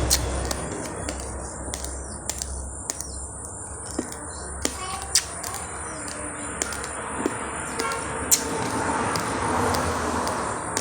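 Raw rice grains being crunched between teeth: sharp, irregular cracks over a steady background hiss.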